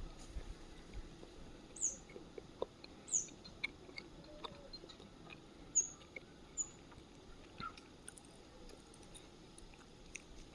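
A few short, high bird chirps, about four or five, scattered through a quiet outdoor background, with faint light clicks.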